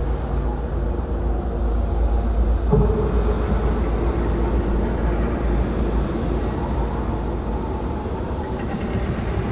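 Dark ambient soundscape: a steady deep rumble with faint held drone tones over it, and a dull knock about three seconds in.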